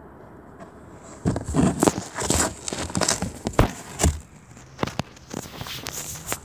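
Irregular clicks, knocks and rustling, handling noise of small objects being moved, starting about a second in after a low hiss.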